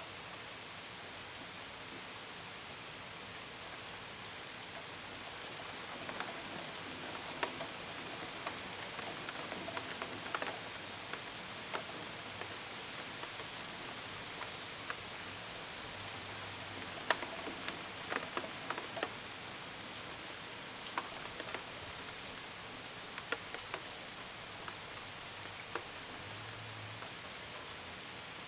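Steady gentle rain hiss, with scattered drops pattering against a window and gutters, more of them from about the middle on. Crickets chirp steadily in a thin, high band behind it.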